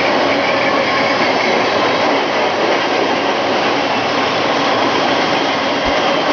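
Double-stack intermodal freight train rolling past, its wheels on the rails making a steady, loud rushing rumble.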